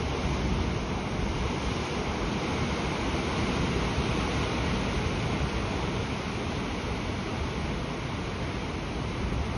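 Steady rushing of sea surf, with wind buffeting the microphone.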